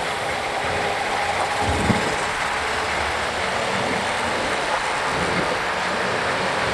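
Motorcycle riding through city traffic: a steady rush of wind and road noise on the rider's microphone, with a brief low thump about two seconds in.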